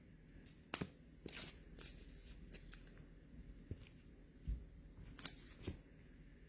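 Faint handling of trading cards: scattered light clicks and rustles, with a few sharper ticks about a second in and again past five seconds.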